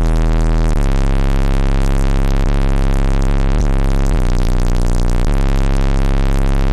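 Bass-heavy electronic music played very loud through a car stereo's two Sundown Audio ZV4 12-inch subwoofers, driven by an Ampere Audio AA-3800.1 amplifier. The deep bass is steady and constant in level, with sliding bass notes every second or so.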